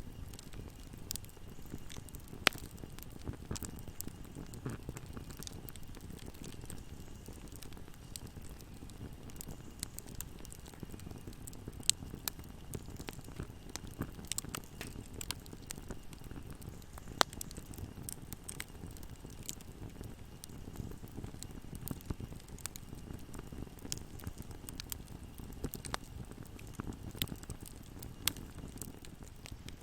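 Fire burning in a fireplace: a steady low rumble of flames with constant small crackles and snaps. Three louder pops stand out, about two seconds in, near the middle and just past halfway.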